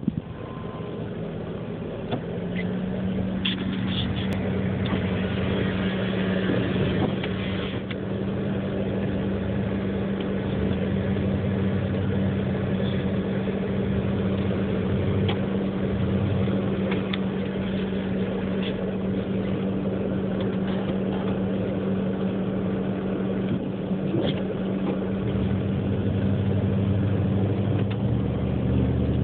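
An engine running steadily at an even pitch, growing louder about two and a half seconds in.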